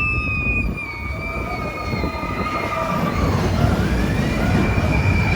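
Roller coaster train rumbling along the track, with riders' long held screams over it: one scream at the start, slowly falling, and another from about three seconds in.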